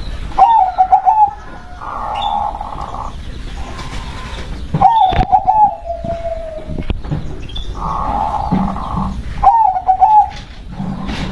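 Zebra dove (perkutut) singing: three phrases of quick, staccato cooing notes, about four to five seconds apart.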